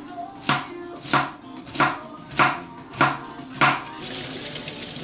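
Kitchen knife chopping on a cutting board, six even strokes about 0.6 s apart, then a steady hiss sets in about four seconds in.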